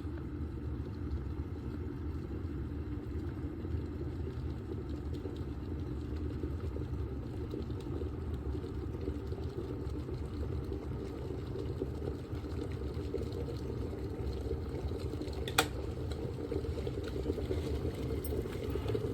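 OVENTE KG83B borosilicate-glass electric kettle heating water, a steady low rumble as the water comes up toward the boil. A single sharp click sounds about fifteen seconds in.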